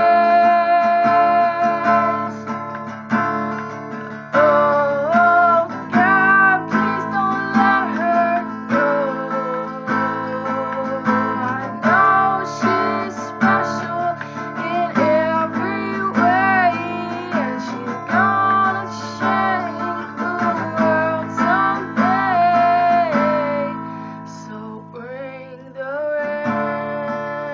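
Strummed acoustic guitar accompanying a woman singing long held notes. Near the end the voice drops out and the guitar plays on alone.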